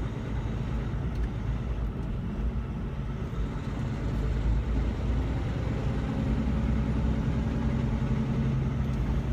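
Truck engine drone and road noise heard inside the cab while driving. A steady low hum in the engine note becomes stronger about six seconds in.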